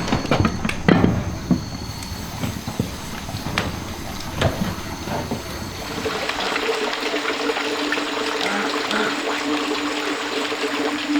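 Scattered knocks and thuds, then from about six seconds in a steady rush of water flowing in a stream.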